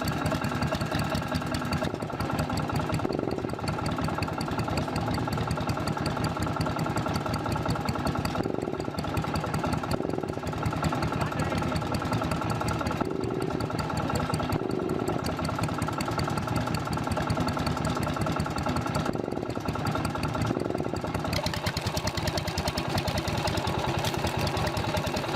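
An engine running steadily with a fast, even beat, driving a woodworking machine.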